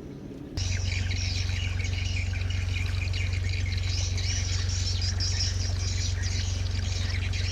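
Many birds chirping and twittering over a steady low hum. The sound starts abruptly about half a second in.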